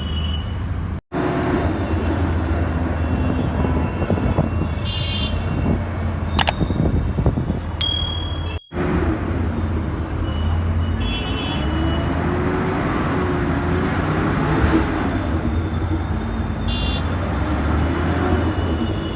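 Onboard noise of a city bus on the move: the engine runs steadily, rising and falling in pitch as the bus accelerates and slows, over road and traffic noise. A few short high-pitched tones come through, and the sound cuts out completely twice for a moment.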